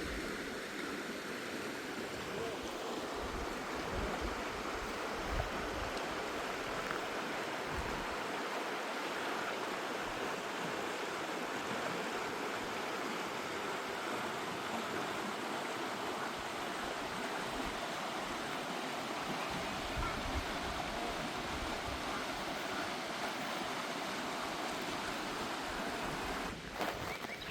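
Steady rushing of a river flowing under a stone bridge, with wind buffeting the microphone in irregular low gusts.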